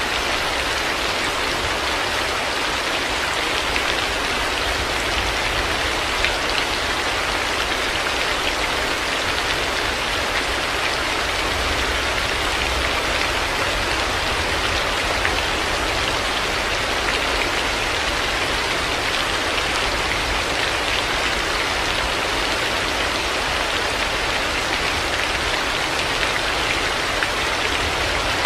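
Heavy rain falling steadily, a dense even hiss of drops on surfaces with a low rumble underneath.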